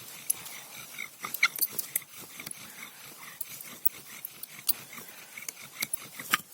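Bow drill being worked for a friction fire: a wooden spindle squeaking and clicking in its socket as the bow is sawed back and forth, in irregular sharp clicks with short squeaks.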